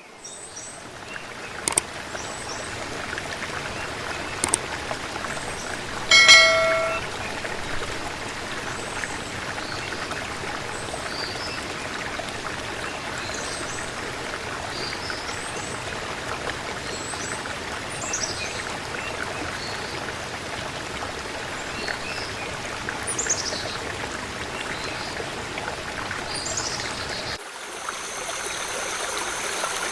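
Water rushing steadily, like a waterfall or stream, with scattered bird chirps over it. About six seconds in, a short, loud pitched call stands out. Near the end the sound changes to a thinner hiss with a steady high tone.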